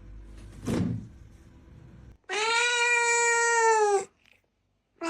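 A domestic cat giving one long, drawn-out meow of nearly two seconds, its pitch steady and dropping slightly at the end. It is preceded about a second in by a short noisy burst.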